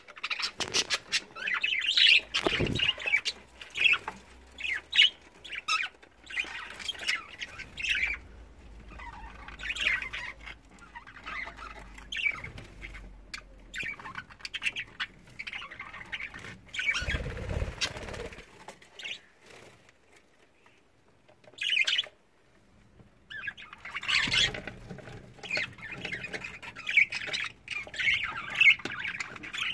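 A flock of budgerigars chattering and squawking in irregular bursts, with scattered clicks and flutters. The chatter dies away for a few seconds about two-thirds through, then picks up again.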